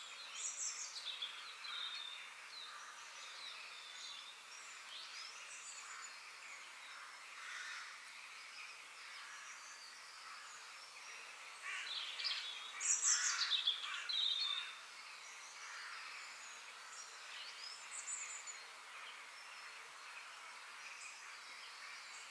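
Forest birds singing and chirping, several at once, over a steady faint hiss, with a louder flurry of calls about halfway through.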